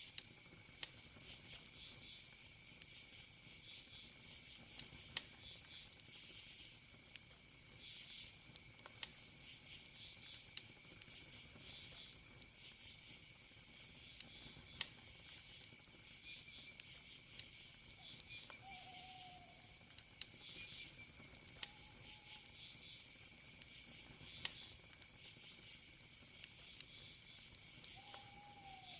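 Wood fire crackling with scattered sharp pops, under crickets chirping in pulsing bursts and a steady high insect trill. A few short, faint whistled notes come in the second half.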